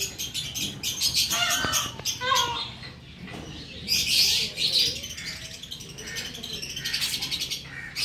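Birds chirping, with bursts of rapid high chirps and trills that come and go.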